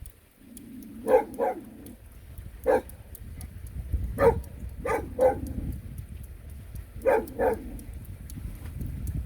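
A dog barking: about eight short barks, mostly in quick pairs, over a steady low rush.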